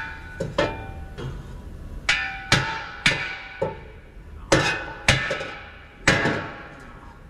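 A hammer striking a steel exhaust pipe about nine times at an uneven pace. Each blow rings out metallically. The blows are tapping the pipe to seat it into the joint.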